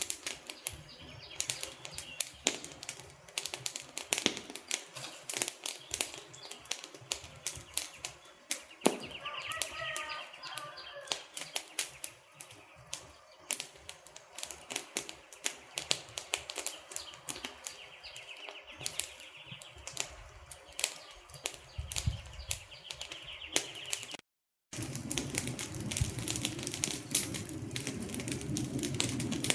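Wood fire crackling, with dense irregular pops and snaps over a low hiss. The sound cuts out for a moment about 24 seconds in, then resumes with a fuller, lower hiss under the crackle.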